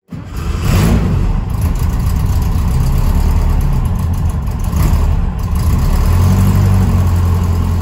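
Engine running with a deep, steady low rumble, swelling a little in level at times as it is revved. It is plausibly the car's air-cooled VW Type 4 engine.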